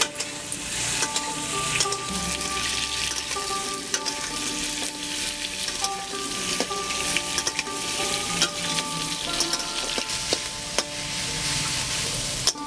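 Potato pieces, and then sliced onions, sizzling as they fry in hot oil in a steel karahi, with a metal ladle scraping and knocking against the pan as they are stirred.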